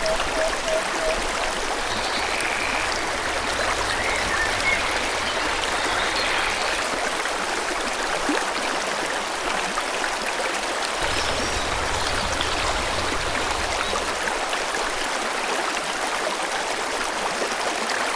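Forest stream flowing steadily, with faint bird chirps over the water. Near the start a short run of quick repeated call notes, about five a second.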